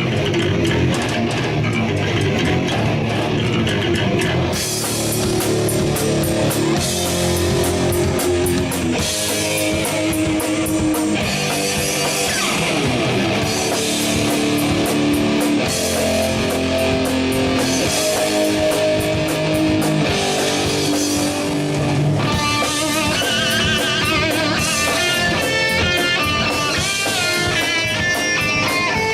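Rock band playing: guitars over a drum kit. In the last part a lead line with bent, wavering notes comes to the fore.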